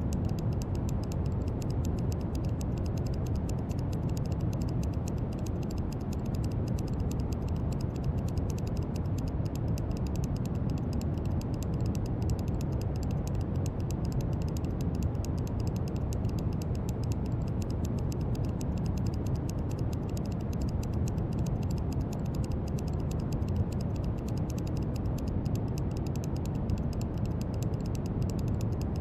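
Steady brown noise: an even, deep rushing hiss, strongest in the low end, with no changes.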